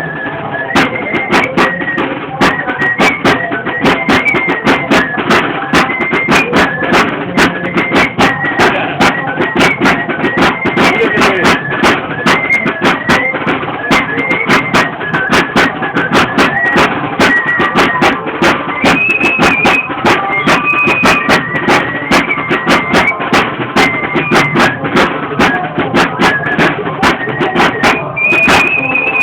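Traditional torito dance music: a high flute playing a wavering melody over a steady drum beat, with the flute holding a high note near the end.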